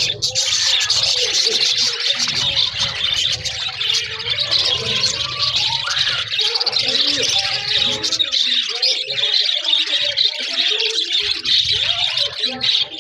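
A flock of budgerigars chattering and warbling together: a dense, continuous stream of fast chirps and twitters, with a low rumble underneath.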